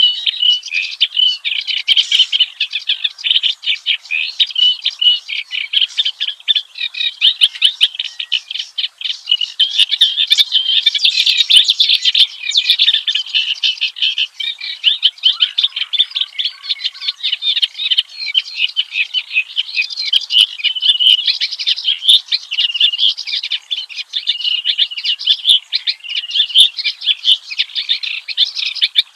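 Reed warbler (kerak basi) singing without a break: a long, loud run of rapid, varied notes, packed several to the second.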